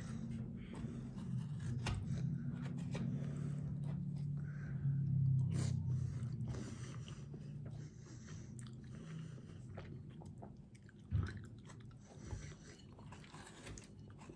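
Close-up mouth sounds of a person chewing and biting food, with small clicks and scrapes of food being handled. A low steady hum sits underneath and fades about halfway through.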